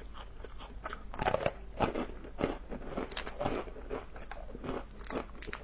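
Crunchy chewing of a small fried dough twist (mahua): irregular crisp crunches as the hard-fried snack is bitten and chewed.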